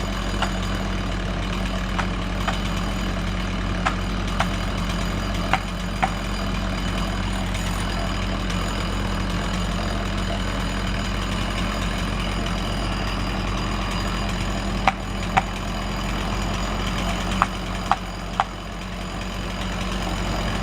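An engine idling steadily with a low, even hum, with short sharp clicks now and then, in a cluster early on and again in the second half.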